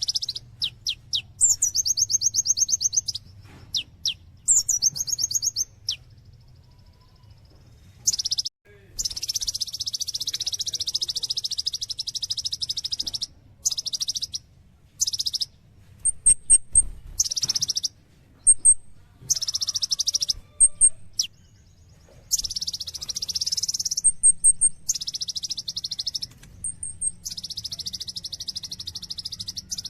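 Kolibri ninja sunbird singing in bursts of rapid, high trills and buzzy chatter, a second or so each with short pauses between, broken by quick runs of very high thin notes.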